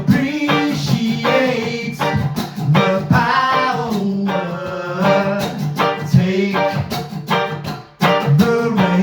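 Music: a guitar strummed in a steady rhythm with a voice singing over it.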